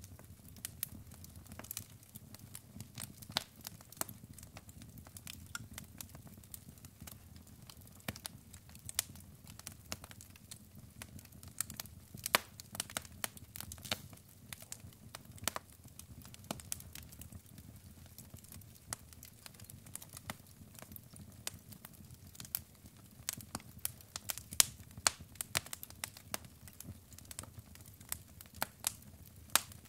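Wood fire of burning logs in a fireplace crackling, with many irregular sharp pops over a low steady rumble.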